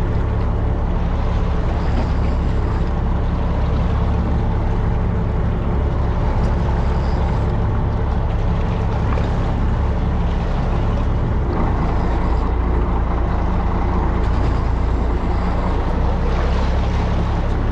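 Fishing boat's engine running with a steady low drone, mixed with water and wind noise.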